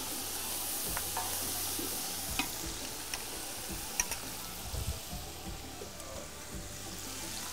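Onions and tomato paste frying and sizzling steadily in a large steel pot, just loosened with tamarind water, as a wooden spoon stirs them. A few light clicks sound through it.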